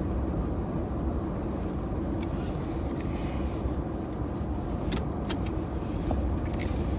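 Steady low road and engine rumble inside a moving car's cabin, with two sharp clicks about five seconds in.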